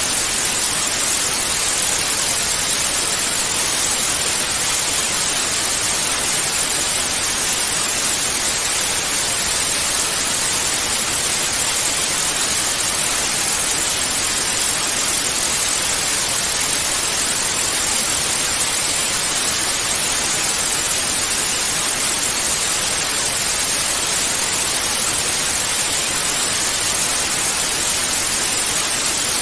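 Analogue TV static: a steady, even hiss of white noise, brightest in the highs, with no breaks or changes.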